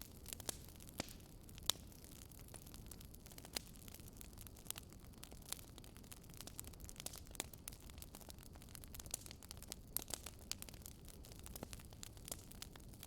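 Wood fire crackling: irregular sharp pops and snaps over a low, steady rush of the flames, with one louder pop about two seconds in and a flurry of snaps near the end.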